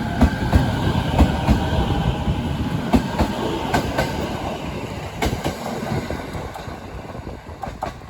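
Train running on the rails, its wheels clicking over the rail joints over a low rumble, the sound slowly fading away.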